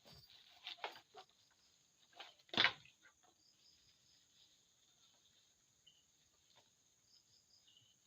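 Steady high-pitched chirring of night insects, with a few soft knocks in the first second and one loud, sharp knock about two and a half seconds in.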